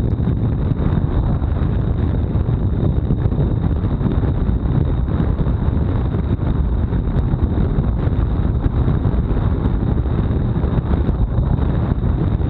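Wind buffeting the action camera's microphone on a road bike at time-trial speed: a loud, steady rush that is heaviest in the low end. A thin, steady high tone runs underneath it.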